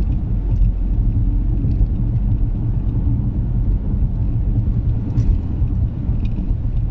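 Steady low rumble of a car driving on snowy roads, tyre and engine noise, with a few faint ticks.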